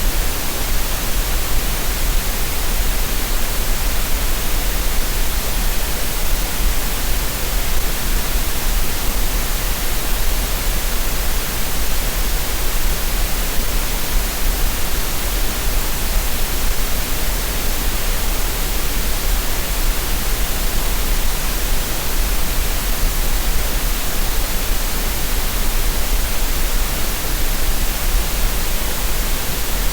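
Green noise: a steady, unchanging synthetic hiss spread evenly from the deep low end up to the highs, with a strong rumble at the very bottom. It is a masking sound for tinnitus and relaxation.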